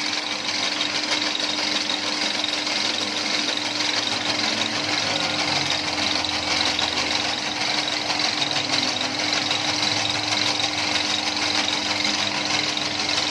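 Motor-driven noodle machine, converted from a hand-cranked one, running steadily at its slowest speed with a constant hum.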